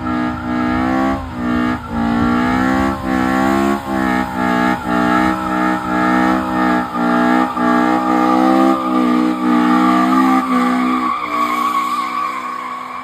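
A car's engine held at high revs, dipping in short repeated cuts about every half second to a second, while its tyres squeal, the squeal growing through the second half. Both fade away near the end as the car drives off.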